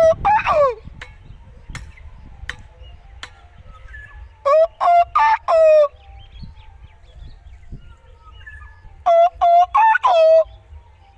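A bird calling: a falling note at the very start, then two phrases of four loud, clear notes each, about four and a half seconds apart.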